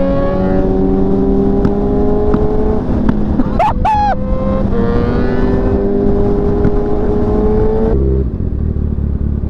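Sportbike engine pulling under load, its note climbing steadily and dropping at two upshifts, with a brief high-pitched warble near the middle. Near the end the engine note falls to a lower, steadier drone.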